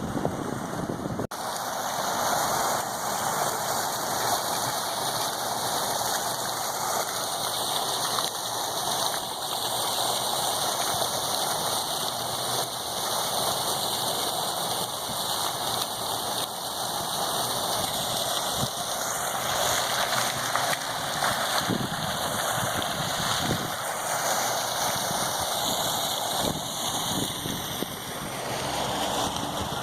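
Hurricane-force wind with rain: a steady rushing noise that keeps on without a break.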